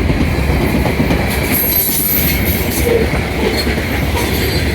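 Loud, steady rumble and clatter of a heavy freight train's wheels rolling past close by. A thin, high wheel squeal rises for about a second around two seconds in.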